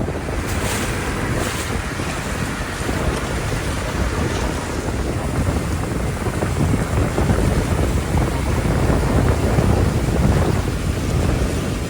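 Wind buffeting the microphone aboard a moving boat, over the steady rumble of the boat and the water.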